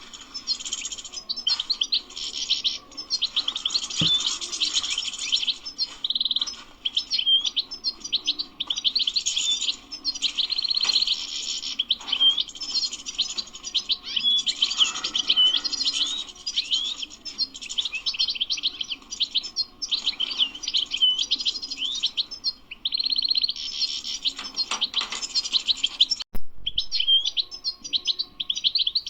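European goldfinch singing a continuous, rapid twittering song of quick tinkling notes mixed with short buzzy trills, with a brief break near the end.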